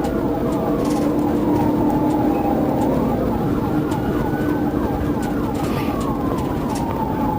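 Police siren during a high-speed pursuit: a slow wail that falls, rises and falls again over a few seconds, overlaid with a fast yelp repeating several times a second. Steady vehicle engine and road noise sits underneath.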